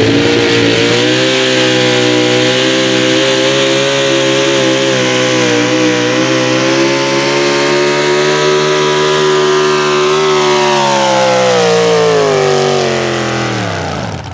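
Pulling tractor's engine running flat out under load, its pitch climbing at the start and then held high and steady for about ten seconds. In the last few seconds the pitch falls away as the engine winds down at the end of the pull.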